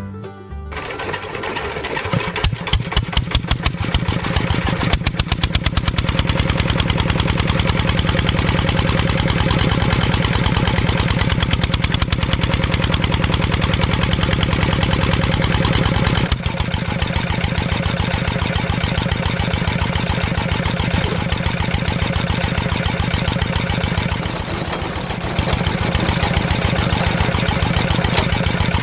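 Small engine of a miniature tractor starting up and running steadily, its firing strokes making a fast, even putter.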